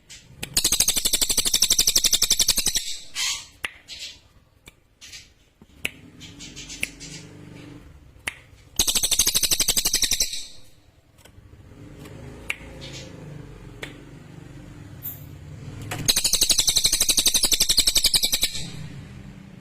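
Cililin bird singing: three loud, high, very rapid trills of about two seconds each, with scattered sharp clicks and a faint low hum in the gaps between them.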